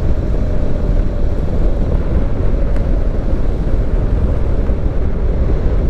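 Motorcycle engine running at a steady pace, mixed with wind rumbling on the microphone.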